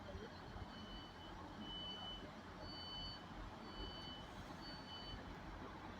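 An electronic warning beeper sounding five high, steady beeps, about one a second, each about half a second long, faint over a low background rumble.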